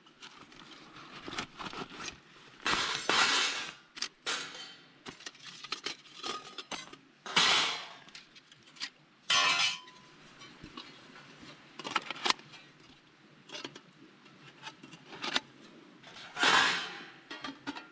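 Irregular clinks and knocks of camping gear being handled, with four louder rustling bursts of under a second each.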